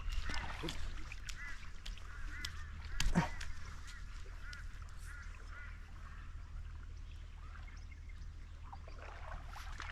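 Birds calling: a run of short, repeated chirping calls through the first half, with a brief louder sound about three seconds in, over a low steady hum.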